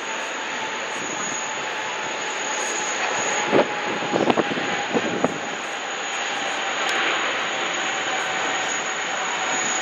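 Jet airliner engines running steadily: a wide rush of noise with a thin, steady high-pitched whine over it. A few brief knocks come a few seconds in.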